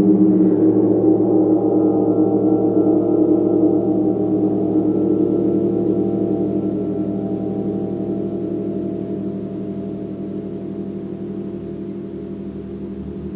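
A large gong ringing out in a dense wash of many low tones with a fast shimmering pulse, slowly fading.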